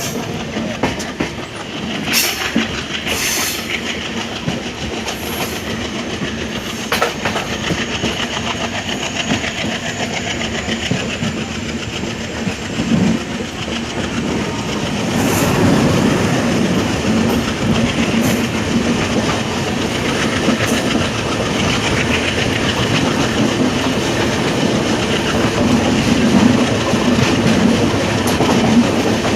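Indian Railways passenger train running on the track, wheels clattering over the rails with a steady rumble that grows louder about halfway through.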